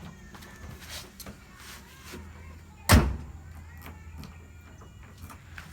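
Engine idling steadily while being warmed up, with one loud slam about three seconds in.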